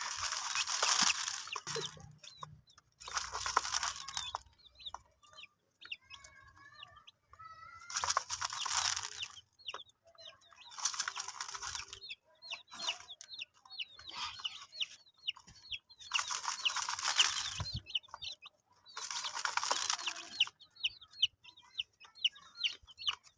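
Baby chicks peeping: a stream of short, high, falling cheeps. Every few seconds comes a hissing, rustling burst of noise lasting a second or so.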